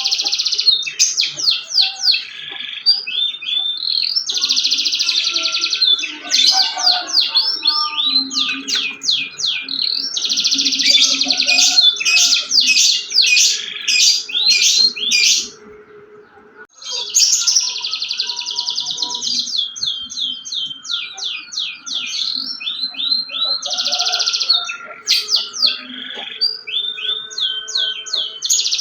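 Domestic canary singing continuously in full song: rapid runs of high repeated notes and long buzzy trills, with one short pause about fifteen seconds in.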